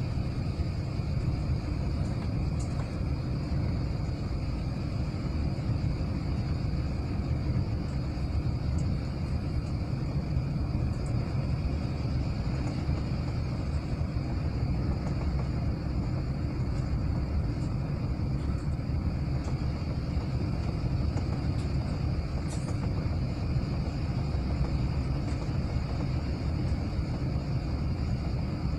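Steady cabin noise inside an Airbus A380 airliner: a low rumble of engines and airflow with a thin, steady high whine over it.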